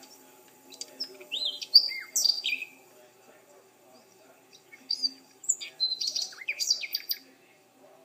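Songbird singing two phrases of quick, high chirps that sweep sharply up and down, the first about a second in and the second a few seconds later.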